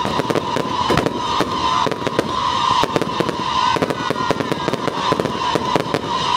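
Firecrackers going off in a dense, irregular crackle of rapid bangs, under a steady high pitched tone of music.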